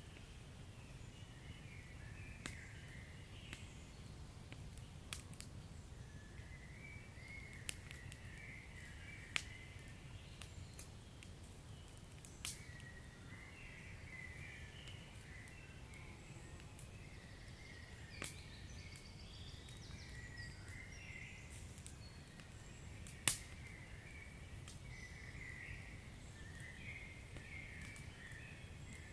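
Wood fire crackling over a low steady rumble, with scattered sharp pops, the loudest about 23 seconds in.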